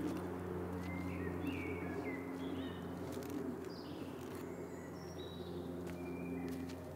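Wild birds singing in woodland: short high chirps and trills scattered throughout, over a low steady hum.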